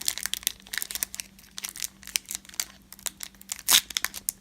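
A trading-card pack wrapper crinkling and tearing as it is ripped open by hand. A louder crackle comes a little before the end.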